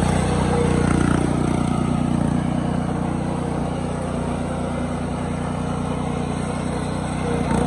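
Riding lawn mower's small engine running steadily, easing off slightly after about two seconds.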